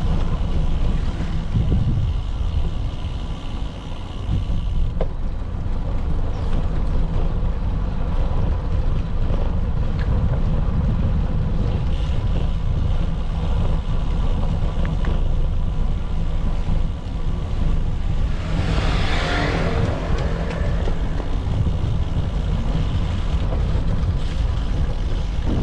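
Wind rumbling on the microphone of a camera riding along on a moving bicycle, with street traffic underneath. About 19 seconds in, a louder hiss swells and fades.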